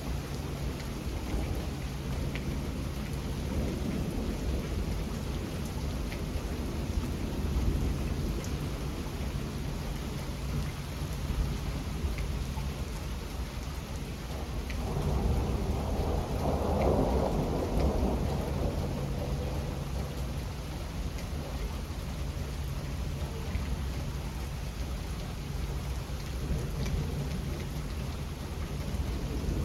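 Steady rain with low thunder rumbling throughout. A louder roll of thunder swells up about halfway through and fades again.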